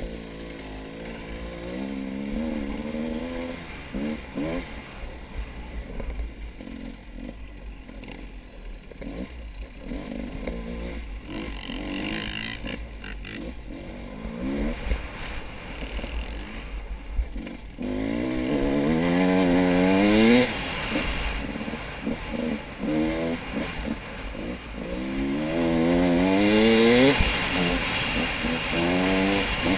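A motor vehicle's engine running under way, its pitch climbing again and again as it accelerates and then dropping back, as with gear changes. It is loudest in the two hard pulls about two-thirds of the way through, over a steady low rumble.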